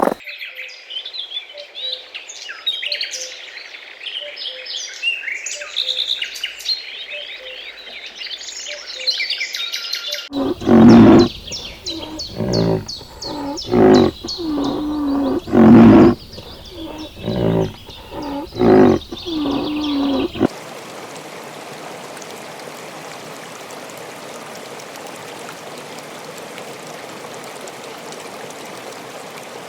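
Small birds chirping and twittering, then a larger animal giving several loud calls, then a steady hiss.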